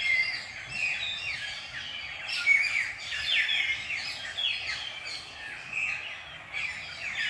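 Chorus of several birds singing together: many overlapping short, falling whistles and chirps, several a second, over a faint outdoor background.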